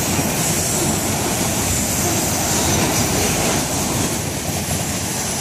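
Freight train of autorack cars rolling past: a steady, loud rolling noise of steel wheels on rail.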